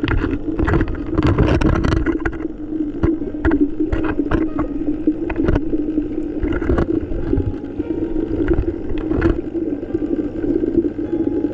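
Underwater ambience: a steady low rumble with many sharp, irregular clicks and pops over it, thickest in the first two seconds.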